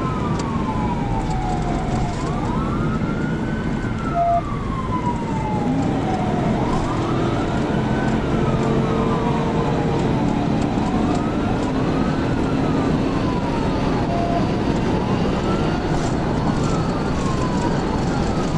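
Police car siren in wail mode, rising and falling slowly about every four seconds, with a second wail slightly out of step with the first, over steady engine and road noise from a cruiser in pursuit.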